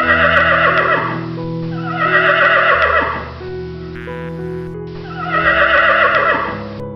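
Three wavering animal calls, each lasting about a second, over background music with long held notes.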